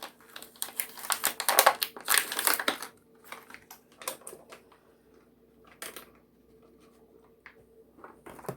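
Crinkling and crunching of cheese and its plastic packaging being handled and broken up over a pot, dense for about three seconds, then a few scattered light clicks and taps.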